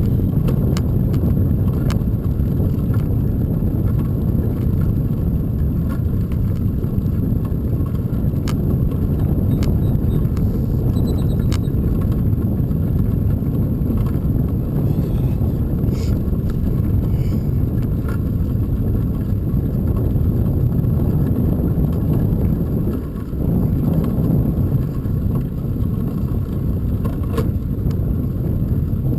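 Steady low rumble of wind on the microphone and road noise from a bicycle being ridden, with scattered faint clicks and rattles from the bike.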